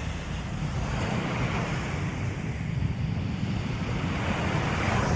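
Ocean surf washing onto the shore in swelling rushes, with wind buffeting the microphone as a steady low rumble.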